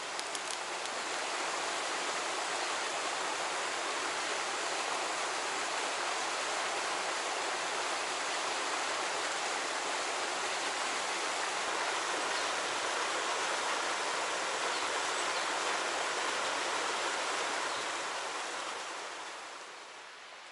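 Oil sizzling steadily as food deep-fries, an even hiss that swells about a second in and fades away near the end.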